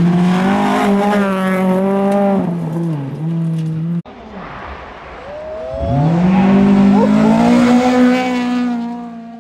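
Volvo 240 rally car engine running at high revs under load. The note holds steady, dips briefly, and cuts off abruptly about four seconds in. It then climbs again and holds high.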